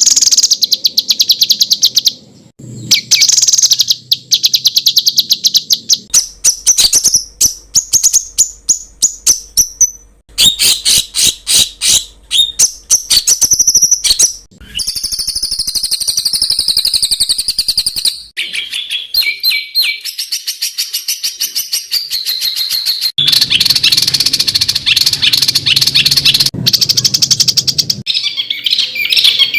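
Loud songbird song in quick series of sharp repeated notes and fast trills, the rapid 'tembakan' notes used as masteran for training songbirds. The song changes abruptly every few seconds, as one recording gives way to another.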